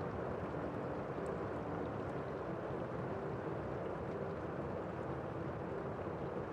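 Steady rain falling outside, heard from inside a room as an even, muffled wash, with a few faint drop ticks.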